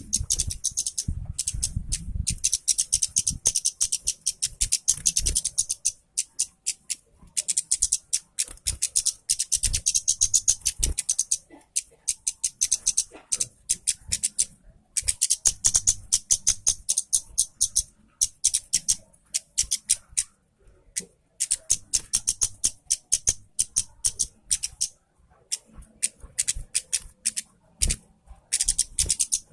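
Red-headed kemade songbird in full song: long phrases of rapid, high-pitched chattering and clicking notes, broken by short pauses every few seconds.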